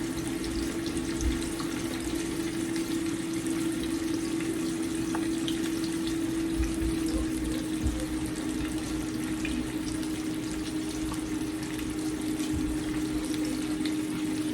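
Flour-coated chicken frying in hot grease in a pan: a steady sizzle with scattered small crackles, over a steady low hum.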